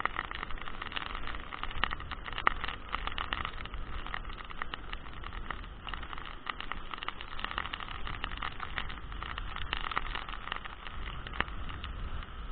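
Heavy rain in strong wind: a steady rush of rain with many sharp taps of drops striking close to the microphone, over a low wind rumble on the microphone.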